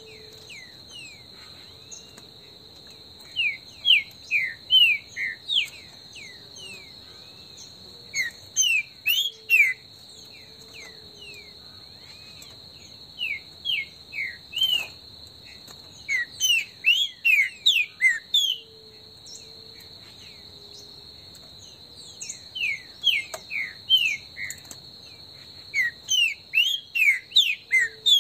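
Green-winged saltator (trinca-ferro) singing in six loud phrases, each a quick run of short, clear, down-slurred whistles. A steady high insect buzz runs underneath.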